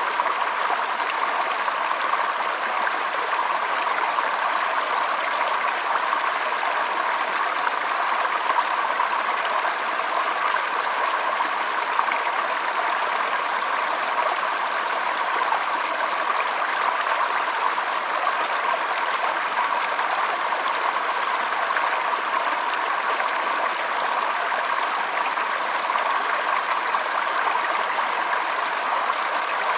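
Shallow stream flowing and trickling, a steady even wash of running water.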